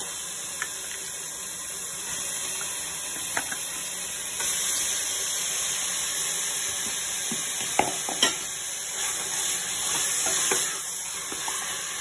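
Chicken pieces sizzling as they fry in hot ghee with ginger-garlic and chilli paste in a pressure cooker; the sizzle grows louder about four seconds in. A spatula stirs and knocks against the pot, with two sharp clicks close together about eight seconds in.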